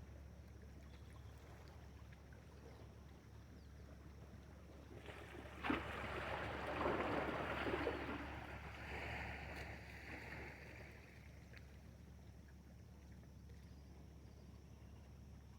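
A sharp knock, then a few seconds of water splashing and sloshing that fade out, over a faint steady hum.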